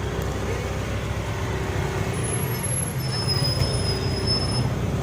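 A motor vehicle's engine running steadily, with a faint high whistle from about two seconds in to near the end.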